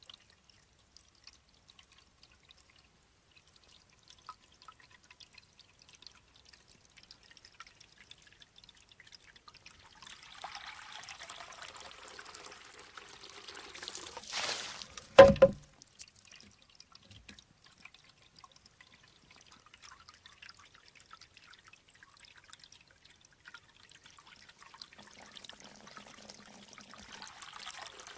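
Shishi-odoshi bamboo water fountain: water trickles into the bamboo tube and swells into a pour as the tube tips. About halfway through, the tube strikes its stone once with a sharp knock. The trickle then starts filling the tube again and builds toward the end.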